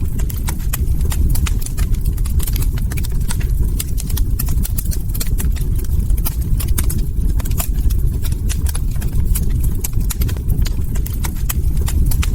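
Log fire crackling: many irregular sharp pops and snaps over a steady low rumble of burning.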